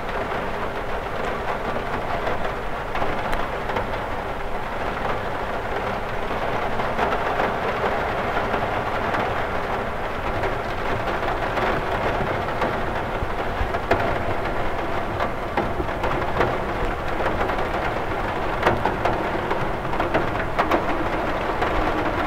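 Steady rain falling on a cathedral window, a dense even patter with a low rumbling undertone, and scattered sharper drop taps against the glass, more of them near the end.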